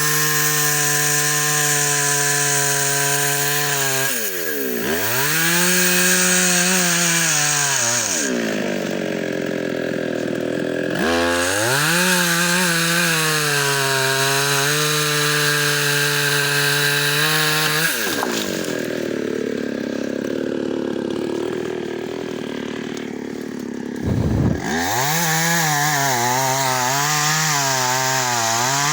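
Two-stroke chainsaw running hard and cutting into wood, its engine note wavering under load. The revs drop and climb back several times, with a quieter, lower stretch about two-thirds of the way through before it revs up again.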